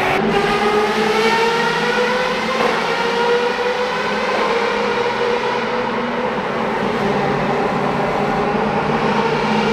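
Formula race car engine running hard at high revs, its pitch climbing slowly and steadily as it pulls.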